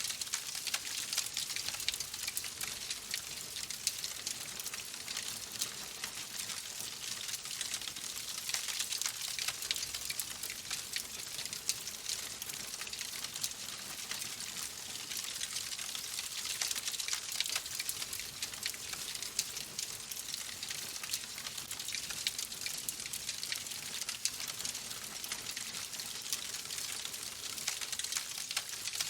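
Fireplace fire crackling steadily: dense small pops and snaps over a soft hiss.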